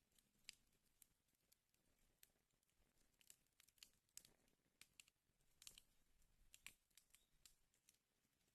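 Wood fire in a fireplace crackling faintly, with irregular sharp snaps and pops.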